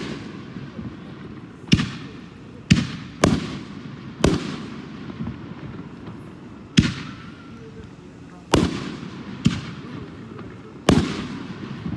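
60-gram canister firework shells being fired one after another, launching from the mortar tube and bursting. There are about nine sharp booming reports at uneven gaps of one to two and a half seconds, each followed by a short echo.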